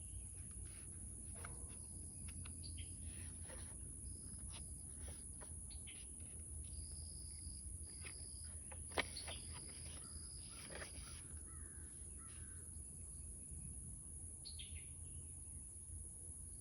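Faint paper rustling and clicks of sketchbook pages being handled and turned, with one sharper click about halfway through. Birds call in the background as short whistles and a few gliding notes over a steady low rumble.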